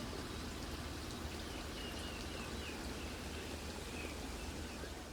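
Steady rain falling, an even hiss of water, with a few faint short high chirps over it.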